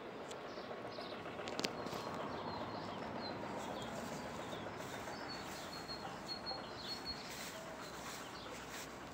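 Small birds chirping over a steady outdoor background hiss, with a run of short high chirps between about five and seven seconds in.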